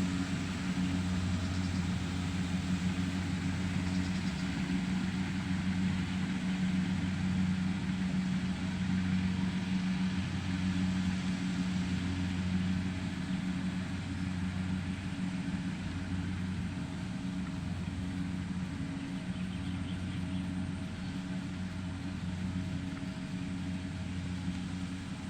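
An engine running steadily with a low, even drone that pulses slightly.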